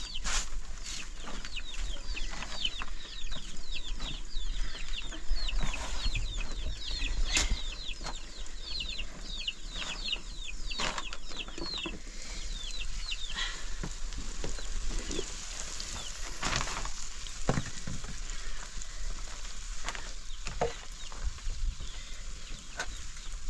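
Birds chirping: a rapid run of short, high, falling chirps, about three or four a second, which stops about halfway through. Scattered knocks and clatter run throughout.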